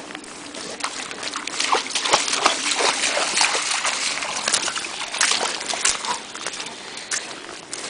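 Irregular splashing and sloshing of steps wading through shallow river water.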